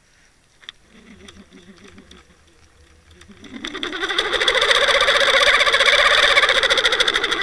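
Watercraft engine, heard through an underwater camera, spinning up: faint at first, then from about halfway in it rises quickly in pitch and loudness and runs on loud and steady with a fast throb.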